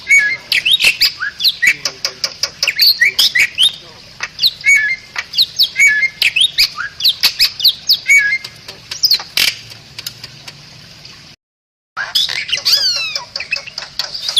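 Bali myna singing: a fast, dense run of harsh squawks, sharp clicks and short whistled chirps. The song thins out near the end, cuts to silence for about half a second, then starts again.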